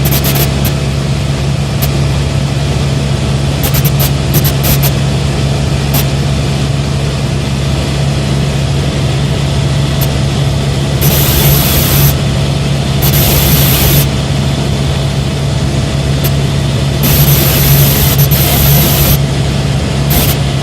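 Helicopter in flight: a steady, loud drone of engine and rotor, with a few bursts of hiss in the second half.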